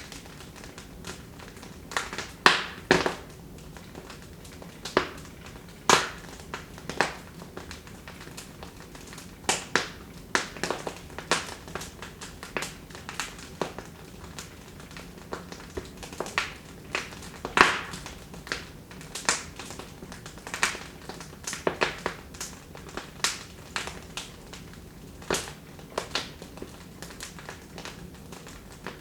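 Wood fire in a fireplace crackling, with irregular sharp pops and snaps over a soft steady hiss; one pop at about two-thirds of the way through is the loudest.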